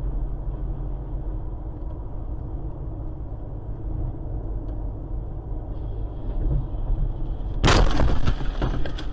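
Steady low rumble of a car driving, then a loud vehicle collision about seven and a half seconds in, with crunching and breaking for about a second.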